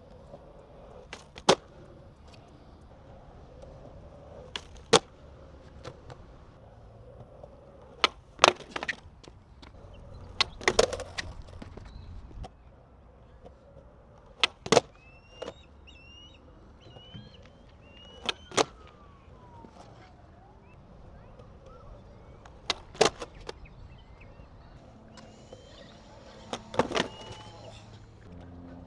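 Skateboard wheels rolling on concrete, broken about every three to four seconds by a sharp clack of the board's tail popping or landing, during shuvit practice.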